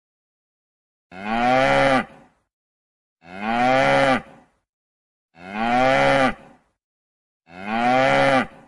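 Cow mooing: the same recorded moo played four times, each call about a second long, rising and then falling in pitch, with a second or so of silence between calls.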